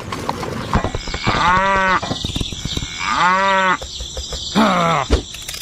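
A cow mooing three times, each a drawn-out call, the last shorter and falling in pitch, over a background of small clicks and rattles.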